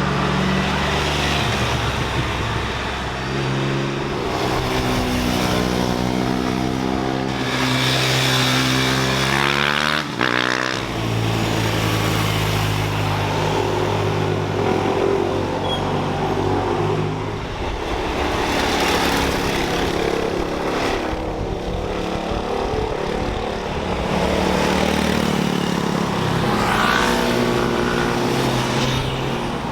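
Sports motorcycles and cars passing one after another through a mountain-road bend, their engines revving and climbing in pitch as they accelerate out of the corner.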